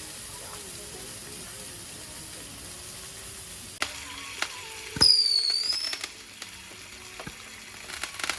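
Rice and food frying in a pan, with a steady sizzle and a few clicks of utensils against the pan. About five seconds in, a loud, high, whistle-like squeal dips and then rises in pitch for about a second.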